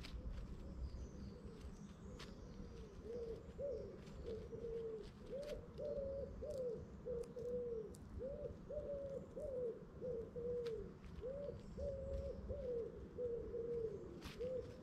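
A pigeon cooing: phrases of low, soft coos that start a few seconds in and repeat about every two to three seconds, over a low steady background rumble.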